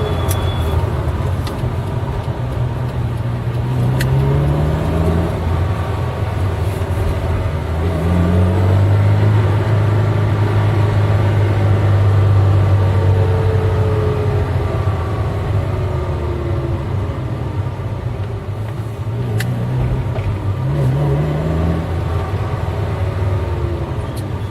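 Eight-cylinder car engine running under way, its pitch climbing three times as the revs rise and holding steady in between.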